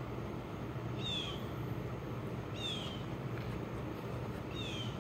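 A bird calling three times, each a short high whistle sliding down in pitch, over a steady low background hum.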